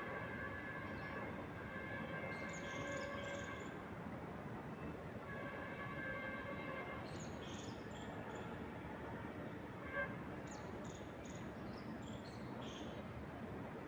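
Steady wind noise with small birds chirping in short, high bursts, while a distant horn sounds in two long held blasts, one at the start and one about five seconds in. A single brief tick stands out about ten seconds in.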